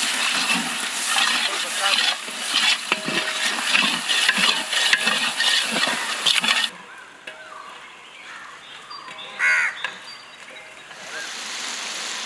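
Tomatoes frying in hot oil with onion and ginger-garlic in a large pot, sizzling while being stirred with repeated scraping strokes. About seven seconds in the loud sizzle cuts off sharply to a much quieter background, with a short voice near the end and a steady hiss returning.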